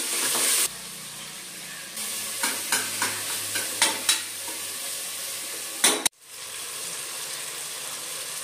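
Onions and tomatoes sizzling as they fry in oil in an aluminium pressure cooker. A steel ladle stirs them, knocking and scraping against the pot a few times.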